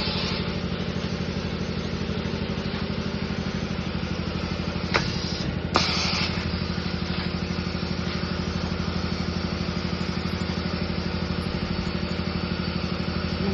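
Raincoat neck making machine running with a steady hum and a rapid, regular pulsing. A few sharp clacks come right at the start and about five and six seconds in.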